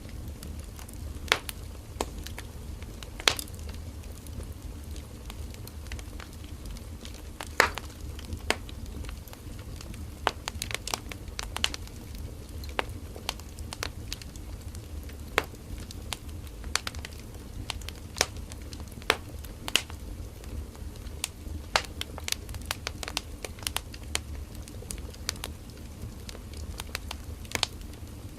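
Firewood burning in an open campfire, popping and crackling at irregular intervals over a steady low rumble of the flames.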